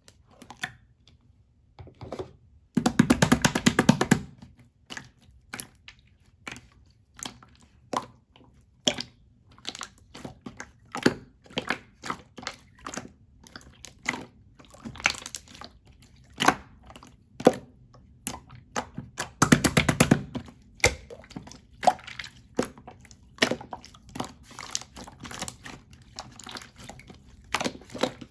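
Clear slime being handled, making irregular sticky clicks and pops, with two short spells of rapid crackling about three seconds in and again near twenty seconds.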